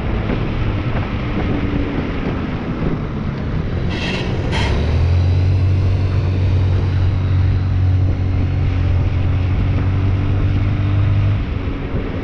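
A car's engine and road noise heard from inside the cabin, a steady low drone that strengthens about five seconds in and eases shortly before the end. Two short high-pitched sounds come about four seconds in.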